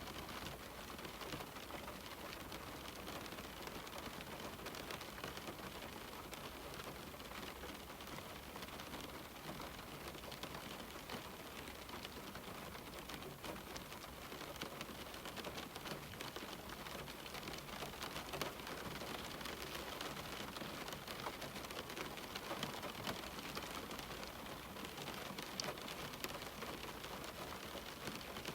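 Steady rain falling on a window pane, a constant hiss with many fine drop taps.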